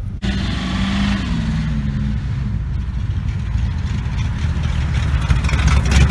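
Car engines passing by: one engine note falls slightly in pitch as a car goes past, then a louder, deeper engine rumble builds near the end.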